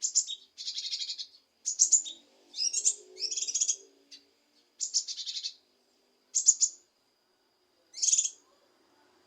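Cucak kinoi calling: a series of short, high-pitched bursts of rapid chattering notes, several close together at first and then more spaced out, one every second or two.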